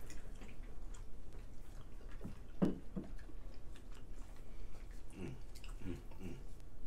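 People chewing and eating, with scattered small clicks of cutlery on plates.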